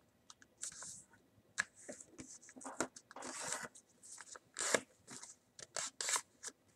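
Sheet of paper being folded and creased by hand: irregular crinkles, rustles and short sliding strokes, with a longer rustle about three seconds in.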